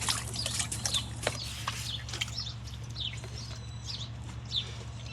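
Birds chirping: short, high, falling chirps repeated every half second to a second, over a steady low hum, with a few clicks in the first second or so.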